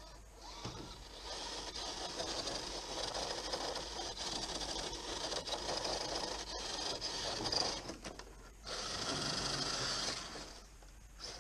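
Redcat Scout Gen8 RC crawler driving, its electric motor and geared drivetrain whirring steadily. The whir cuts out briefly a little past eight seconds in, picks up again, and falls off near the end.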